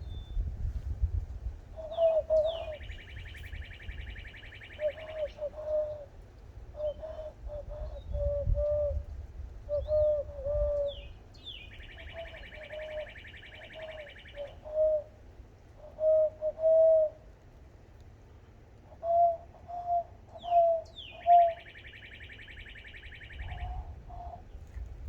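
Dove-like coos whistled through cupped hands: many short hollow hoots in uneven clusters. Three times, about ten seconds apart, a bird gives a buzzy high trill about two seconds long, led in by a quick falling note.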